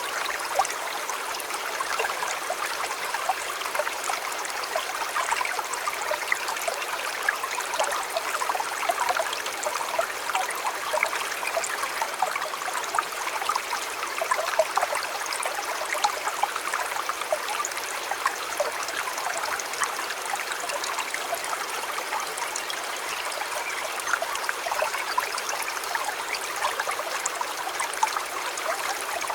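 A river flowing: a steady, even babble of running water made of many small splashes and gurgles, light and without a deep rumble.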